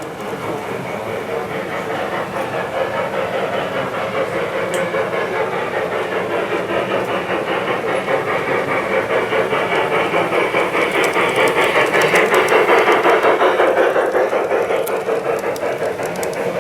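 G-scale LGB model train running past on its track, a rapid steady clatter with motor hum that grows louder, peaks about three-quarters of the way through, then fades a little as it moves away.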